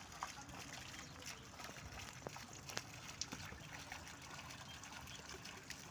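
Faint trickling water with short, scattered chirps from small birds.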